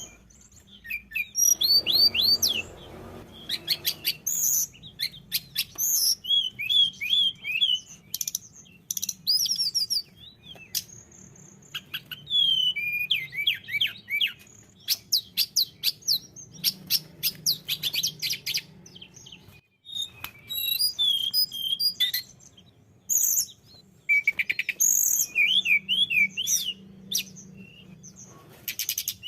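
Tledekan gunung, a songbird known by this name among Indonesian bird-keepers, singing a busy, continuous song of quick high chirps, rising and falling whistled notes and fast rattling trills. There is a brief pause about two-thirds of the way through.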